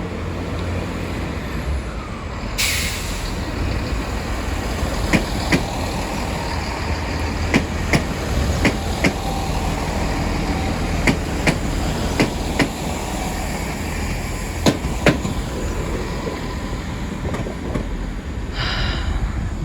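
Class 165 diesel multiple unit pulling out of the station with a steady low engine rumble. A short burst of air hiss comes about two and a half seconds in. It is followed by a run of sharp wheel clicks over the track joints and points, and a smaller hiss comes near the end.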